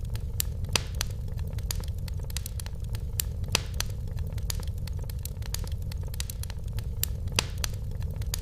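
Wood fire crackling in a fireplace: irregular sharp snaps and pops, a few of them louder, over a steady low rumble of the burning fire.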